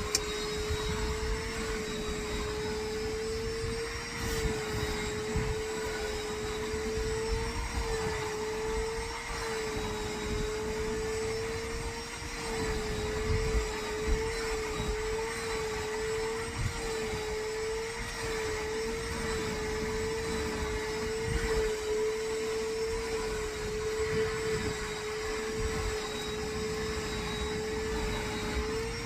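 Vacuum cleaner running steadily with a constant whine whose pitch dips slightly now and then, with a few light knocks.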